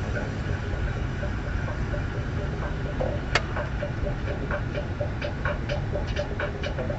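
Inside a moving vehicle: a steady low engine and road rumble with a quick, regular ticking, about four to five ticks a second. A single sharp click sounds a little over three seconds in.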